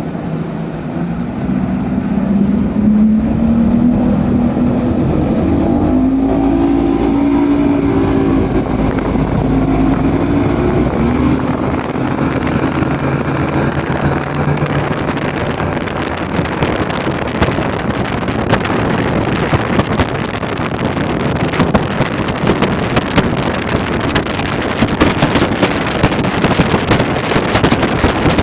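Motorboat engine speeding up, its pitch rising over the first several seconds. From about halfway on, wind buffets the microphone with crackling gusts, which comes to cover the engine.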